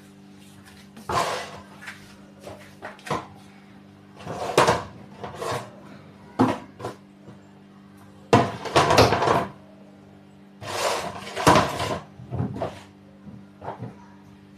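Irregular rustling and knocking from things being handled during laundry sorting, in about a dozen short bursts, the loudest around four, nine and eleven seconds in. A steady low machine hum runs underneath.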